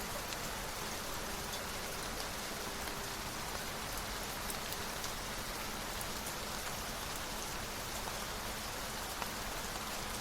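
Steady rain, with a few faint scattered drop ticks.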